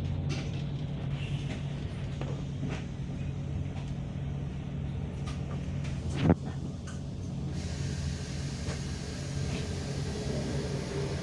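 Bus engine and road noise, a steady low hum heard from inside a moving bus. There is one sharp knock about six seconds in.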